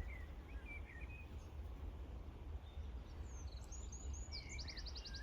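Small songbirds chirping: a few short chirps at the start, then a busier run of chirps and a quick trill from about three seconds in, over a low steady rumble.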